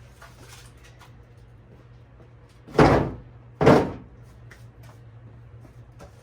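Two pieces of firewood set down into a wood-carrying tray: two heavy thunks a little under a second apart, about three seconds in.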